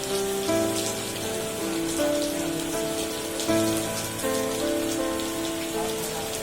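Steady rain falling, with a fine patter of drops, under an instrumental music intro of sustained held notes that shift every second or so.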